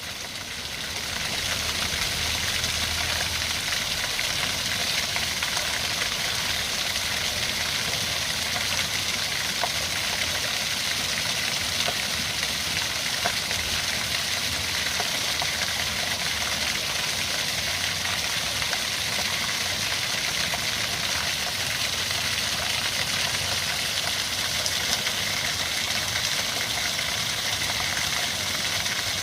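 Mountain stream water rushing and splashing against rocks, a steady, even rush that fades in over the first second or so.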